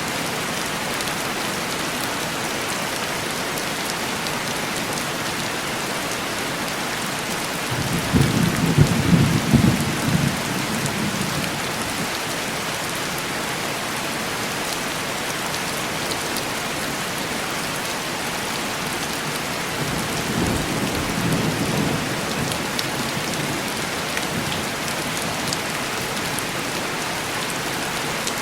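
Heavy rain falling steadily on window glass, with two low rolls of thunder: a louder one about a third of the way in that lasts a few seconds, and a fainter one about two-thirds of the way in.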